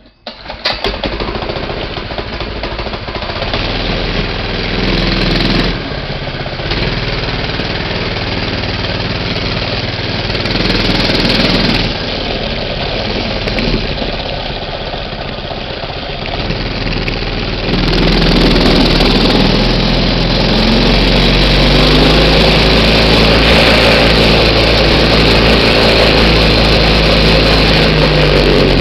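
Minibike's small engine starting up and running, its speed rising and falling, then running louder and steadier from about 18 seconds in.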